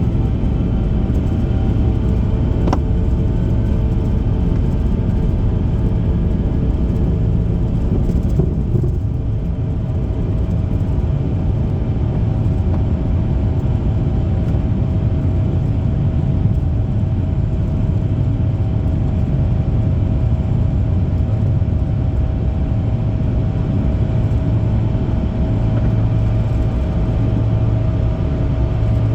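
Steady low engine rumble with a constant mid-pitched hum, holding an even level.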